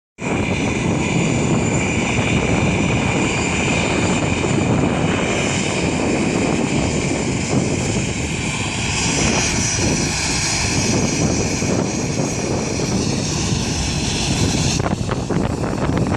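Airbus A320-214's CFM56 turbofan engines running at taxi power: a steady jet roar with a high, even fan whine over it.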